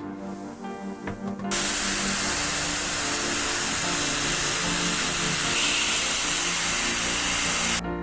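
Spray painting: a loud, steady hiss of spray that starts abruptly about a second and a half in and cuts off sharply near the end, over background music.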